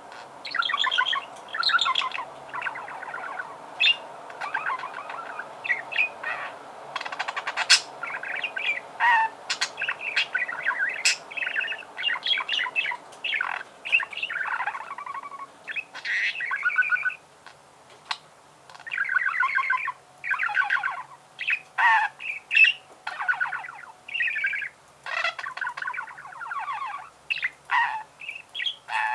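Budgerigar warbling its long chattering song: a rapid run of chirps, buzzy warbles, clicks and occasional squawks, with brief pauses.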